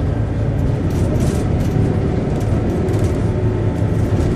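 Volvo B7RLE single-deck bus's diesel engine and drivetrain running steadily, heard from inside the passenger saloon. A faint steady tone joins in about halfway through.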